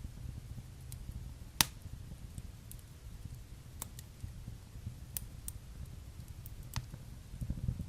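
Wood fire burning in a fireplace: a low steady rumble of flames with a handful of sharp crackles and pops, the loudest about one and a half seconds in.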